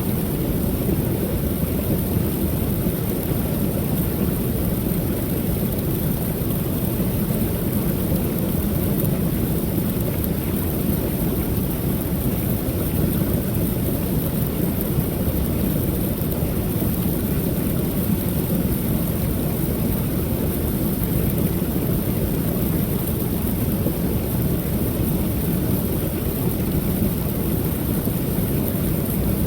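Creek waterfall pouring: a steady, even rush of falling water, deep and full, without breaks or changes.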